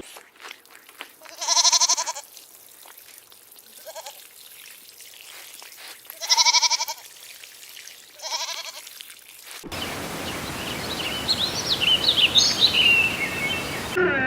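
A farm animal calling: a series of wavering, pitched calls, three of them loud, a few seconds apart. About ten seconds in the sound cuts abruptly to a steady hiss with quick, high chirps over it.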